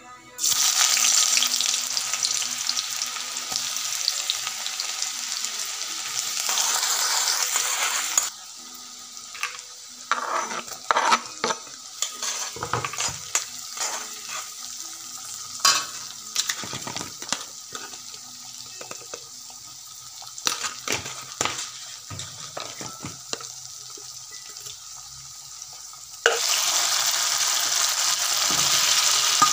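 Vegetables and tomato frying in hot oil in a metal kadhai: loud sizzling for the first several seconds, then a quieter stretch of a spatula scraping and knocking against the pan as the mixture is stirred, and loud sizzling again near the end.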